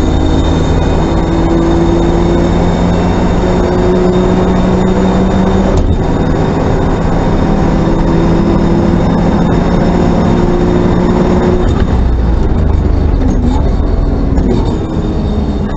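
Race car engine heard from inside the cabin, pulling hard under full throttle with a gear change about six seconds in. About twelve seconds in the engine note drops away as the car lifts and slows, leaving a rough drone of engine, wind and road noise.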